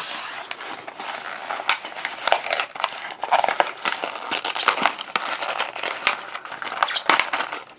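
Plastic blister packaging of a diecast model car being pulled open and handled: continuous crinkling and crackling with many small sharp clicks.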